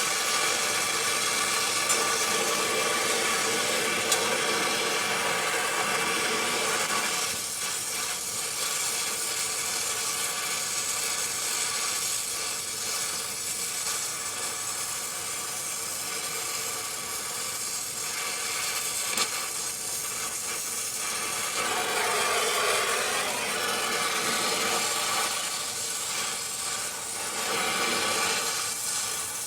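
A machine running steadily: an even rushing noise with a constant hum, shifting slightly in tone a few times.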